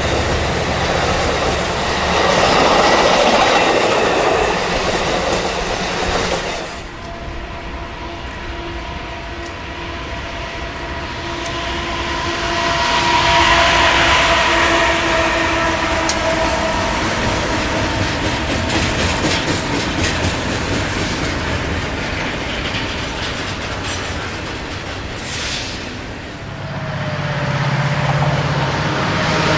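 A train running past on the rails, with steady rumble and several steady tones. It swells twice, with a run of short wheel clicks over rail joints in the middle.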